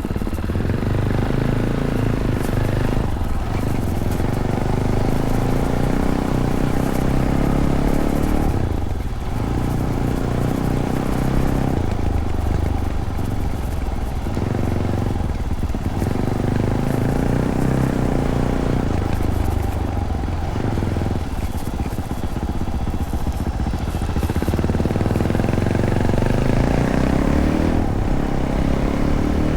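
Fantic Caballero 500 single-cylinder engine running through its stock Arrow exhaust under way. The engine note rises and falls with the throttle and drops off briefly several times, as when backing off or shifting gear.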